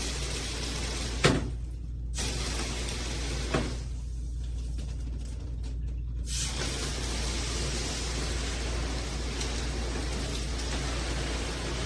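Water spraying from a shower head with a steady hiss, cutting out twice, once briefly and once for a few seconds, with a knock about a second in and another about three and a half seconds in.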